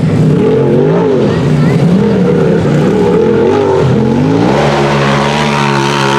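Side-by-side UTV engine being revved hard, its pitch rising and falling with the throttle, then climbing and holding at high revs near the end.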